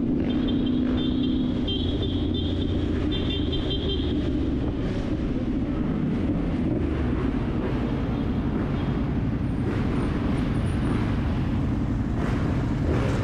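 Dirt bike engine running steadily while riding, with road noise. A high, rapidly pulsing beep sounds over the first four seconds.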